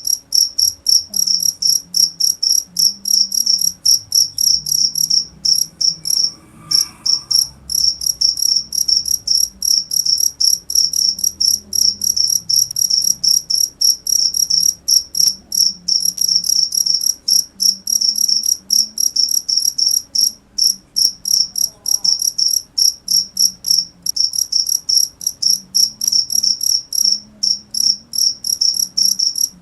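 Cricket chirping on and on: a rapid, even train of high-pitched chirps, broken only by a few short pauses.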